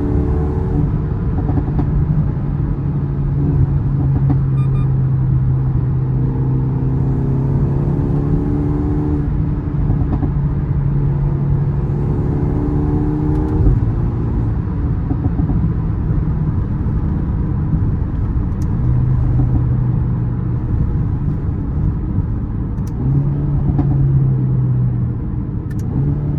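Mercedes-AMG A35's turbocharged four-cylinder engine pulling the car along the road, its note rising in pitch over a few stretches of acceleration and dropping back between them, then running at a steadier drone.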